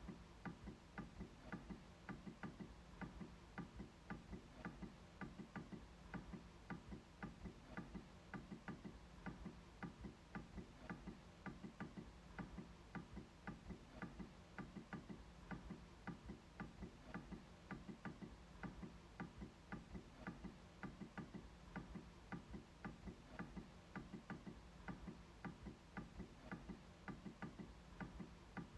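MacBook trackpad being clicked repeatedly: faint, evenly spaced clicks, about three a second.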